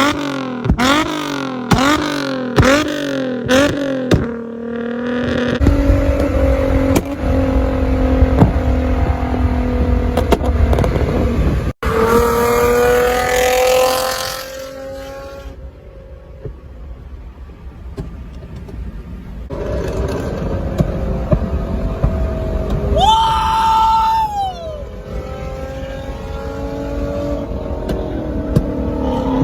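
Infiniti G35 coupe's V6 through a Tomei Expreme Ti titanium exhaust, revved in quick blips about twice a second for the first few seconds. After that come several clips of the car running and pulling, with the engine note rising and falling.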